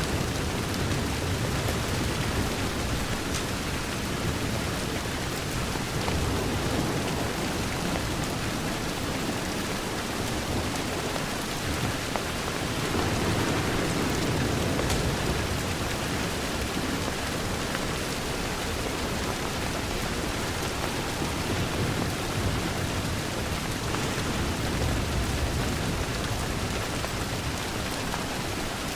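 Steady heavy rain pattering on a window, with a low rumble underneath that swells and fades a few times.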